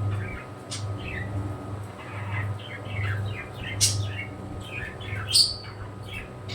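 Pet birds chirping continuously, a flurry of short falling chirps with three louder, sharper calls cutting through.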